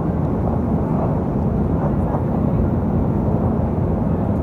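Steady cabin roar of a Boeing 777-200 in flight: engine and airflow noise heard inside the economy cabin.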